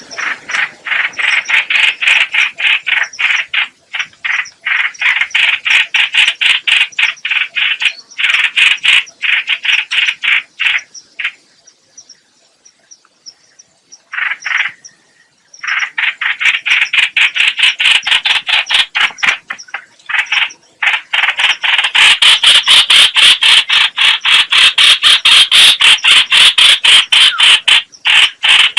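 Trao trảo (streak-eared bulbul) calling: long runs of rapid, harsh repeated notes, several a second, with a pause partway through before the calling resumes.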